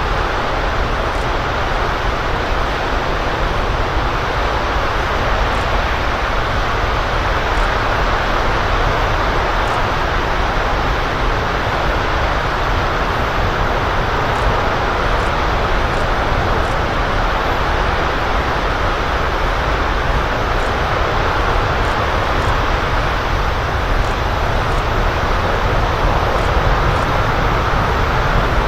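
LE-9 liquid-hydrogen/liquid-oxygen rocket engine firing on a test stand, heard from a distance as a loud, steady rushing noise with a low rumble underneath.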